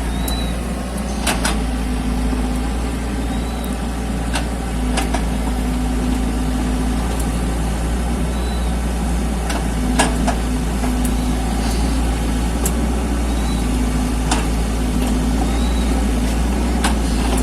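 Mini excavator engine running steadily, with a hum that comes and goes every few seconds and a few sharp knocks of the machine at work.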